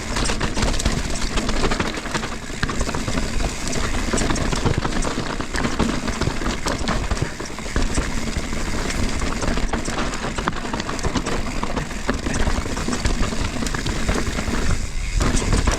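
Mountain bike rolling over a rocky trail: a steady rushing noise with a dense scatter of small clicks and rattles from tyres, chain and frame.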